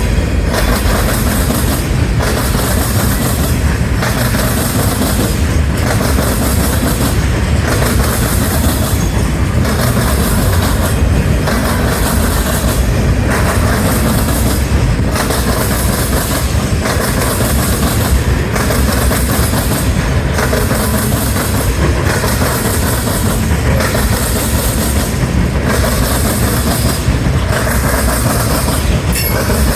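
Freight train cars rolling past at speed: a steady loud rumble of steel wheels on rail, with a regular pulse about every two seconds.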